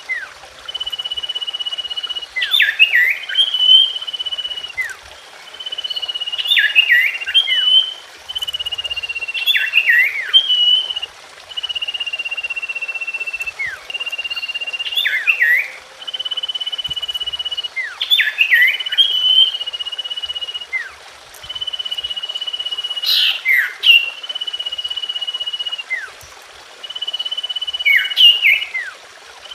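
Common iora (cipoh) song: a long, level whistle followed by a few quick, falling chirps. The phrase repeats about every three to four seconds, as a recorded lure call played to draw a response from the bird.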